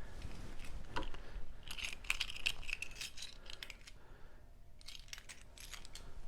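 Keys jingling on a keyring, with small metal clinks, in two bursts: one about two seconds in and a shorter one near five seconds.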